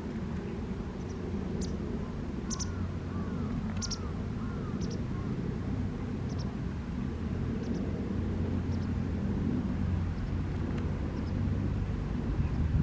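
Wild birds calling: scattered short, high chirps, with a few arching calls about two to four seconds in, over a steady low rumble.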